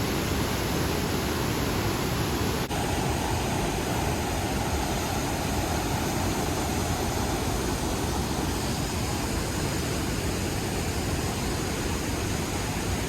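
Fast-flowing waterfall rushing steadily, a dense full-range wash of water noise, with a brief break about two and a half seconds in after which the rush sounds slightly different.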